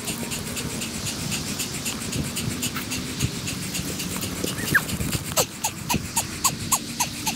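Mountain biker panting hard in quick, even breaths while riding up a climb. In the last couple of seconds a run of short squeaks comes in, about two or three a second.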